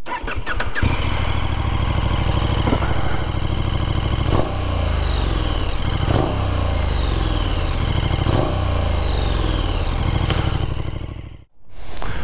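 KTM 1290 Super Duke R V-twin idling through its stock exhaust, blipped about five times, each rev falling back to idle. The sound cuts off suddenly near the end.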